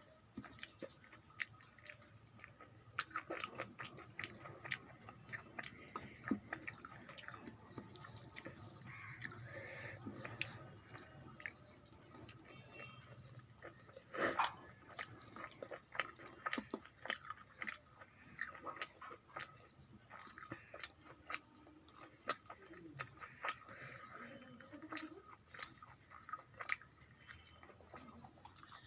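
Close-miked chewing and mouth sounds of a person eating a rice-and-curry meal: repeated wet smacks and small crunching clicks, with one louder sharp click about fourteen seconds in.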